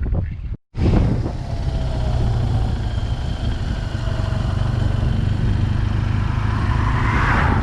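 BMW R 1200 GS boxer-twin engine running through its aftermarket SC Project exhaust while riding, a steady drone. It cuts out briefly less than a second in, and a rushing hiss grows near the end.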